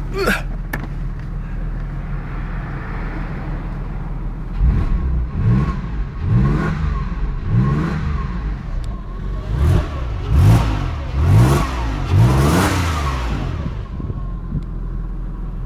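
Porsche 911 Carrera 4 flat-six idling, then blipped about eight times in quick succession, each rev rising and falling in pitch, before it settles back to idle.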